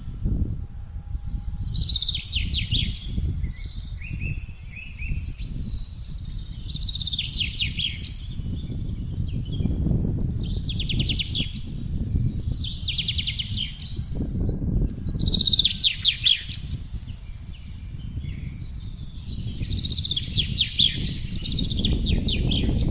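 Songbirds singing short phrases of rapid trilled notes, one phrase every couple of seconds, over the low, gusting rumble of wind.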